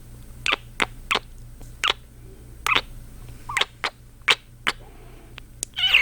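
Close-miked kissing sounds: about ten quick wet lip smacks, irregularly spaced, with a faint steady hum underneath.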